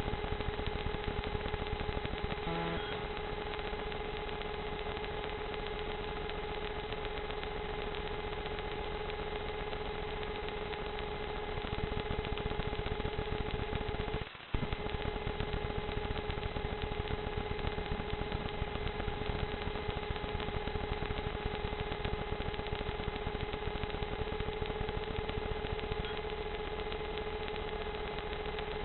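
Small drone's motors and propellers whirring in flight: a constant, even hum with a brief cut-out about halfway through.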